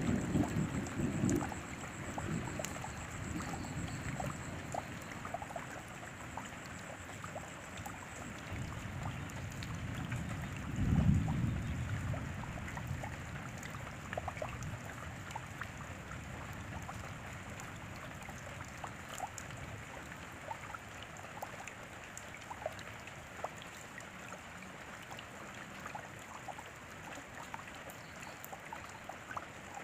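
Steady rain, with many separate drops ticking through it. A low rumble sits under it near the start, and a louder one comes about eleven seconds in.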